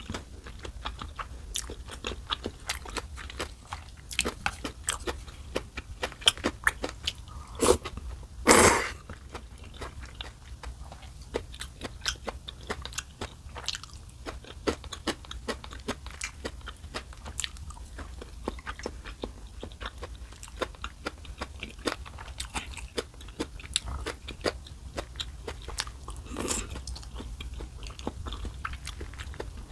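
Close-miked eating: steady chewing and crunching of food with many small mouth clicks, and a louder slurp of noodles about eight seconds in and a softer one near the end.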